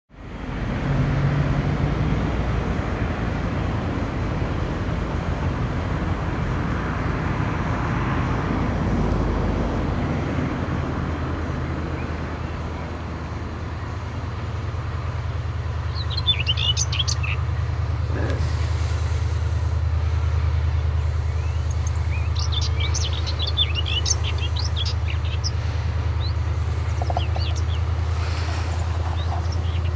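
Diesel locomotive engine running with a steady low drone that settles in about ten seconds in, after a rougher rumbling noise. Birds chirp over it in short bursts through the second half.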